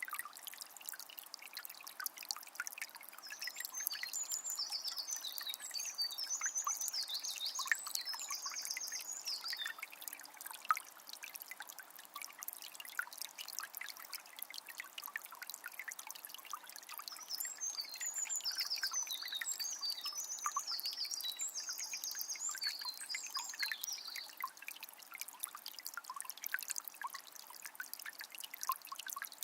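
Water of a small spring trickling and splashing steadily, with many fine drips. A songbird sings twice in long, high runs of song, each lasting several seconds.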